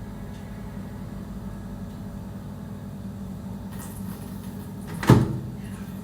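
Steady low mechanical hum, with one sharp bang about five seconds in.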